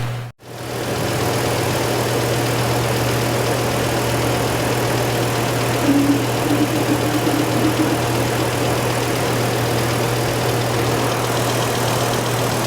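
Car engine idling steadily, left running to purge air from the cooling system. The sound cuts out for a moment just after the start.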